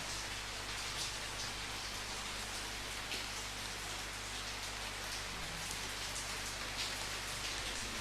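Steady rain falling and pattering on a surface, an even hiss with occasional louder drips.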